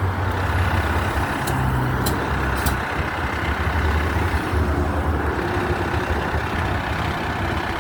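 Heavy truck's diesel engine idling with a steady low rumble. Three light clicks come about half a second apart near the start.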